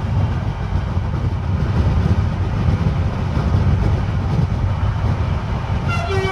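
Steady low rumble of a moving vehicle, with a horn starting to sound just before the end.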